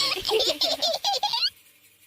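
A baby giggling: a quick run of short laughs that stops about one and a half seconds in.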